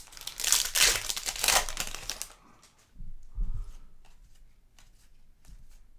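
A trading card pack's wrapper being torn open and crinkled for about two seconds, followed by faint light ticks of cards being handled.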